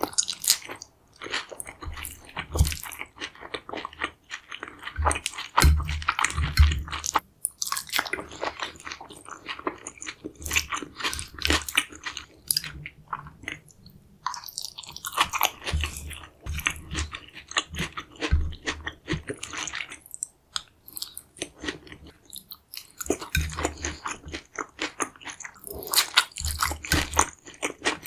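A person biting and chewing a deep-fried carnitas chimichanga close to the microphone, with dense crunching of the crisp shell throughout and a few short pauses.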